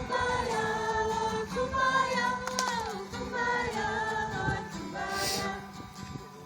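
A group of young people singing together in long held notes, the singing fading out near the end.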